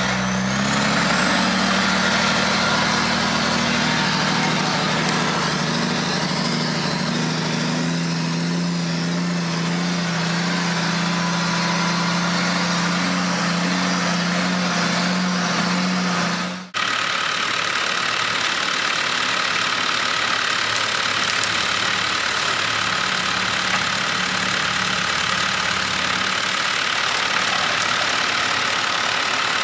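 Mack R600 truck's diesel engine pulling in gear, its note climbing over the first couple of seconds as the truck gets going, then holding steady. The sound cuts off abruptly about 17 seconds in, and a steady engine run carries on after the cut.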